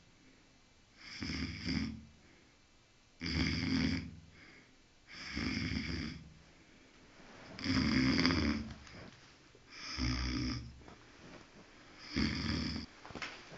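A sleeping dog snoring, a rough snore about every two seconds, six in all.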